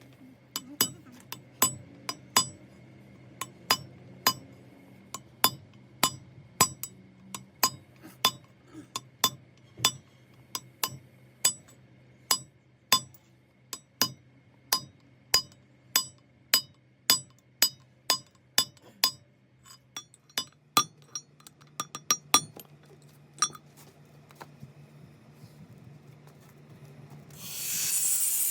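Metal parts being struck with a hammer: sharp ringing taps about two a second for some twenty seconds, over a faint steady hum. A loud rushing noise starts near the end.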